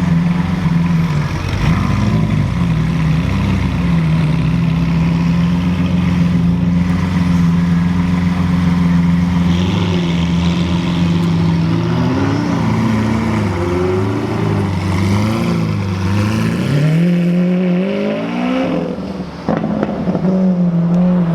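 Car engine idling steadily, then revved in a series of throttle blips, its note rising and falling with each one. A sharper rise comes near the end before it settles back to idle.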